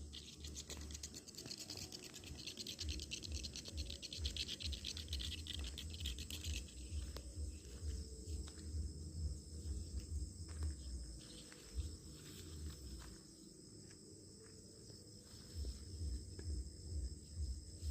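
Outdoor insect sound: steady high-pitched trilling, with a dense buzzing chorus that stops about a third of the way in. Underneath runs an uneven low rumble with a few faint clicks.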